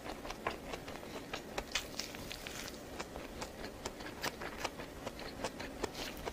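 A person chewing and eating close to the microphone: irregular mouth clicks and smacks, several a second.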